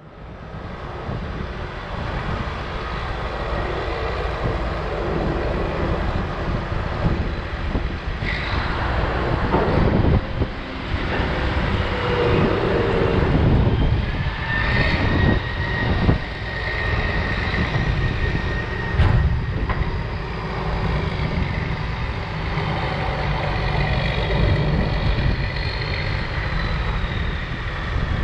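Heavy diesel machinery running continuously as farm tractors and tracked snowcats work a corn silage trench. Several sharp knocks come through, and a high steady whine lasts a few seconds midway.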